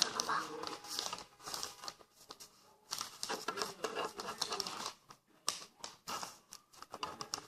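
A sheet of paper rustling and crinkling in the hands as it is folded and creased, with scattered sharp crackles and short pauses.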